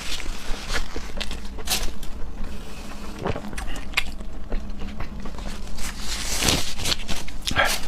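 Close-miked eating sounds: chewing and mouth smacks on raw seafood, with irregular small clicks and a few louder noisy bursts.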